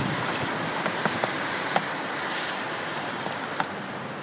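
Gusting wind-driven rain: a steady hiss of rainfall with scattered taps of drops landing close by, slowly easing.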